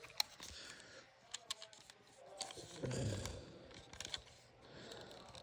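Scattered small sharp plastic clicks and handling noise from a toy Power Morpher being fiddled with, with a brief low rumble about three seconds in.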